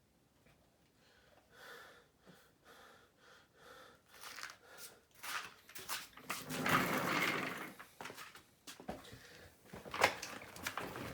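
Handling noises as objects are picked up and moved: scattered soft knocks and rustles, a longer stretch of rustling in the middle, and a sharp click about ten seconds in.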